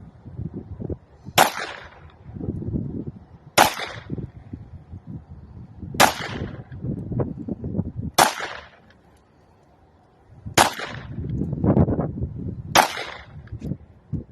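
Six shots from a 1911-style pistol in .380, fired one at a time about two seconds apart, with wind buffeting the microphone between shots.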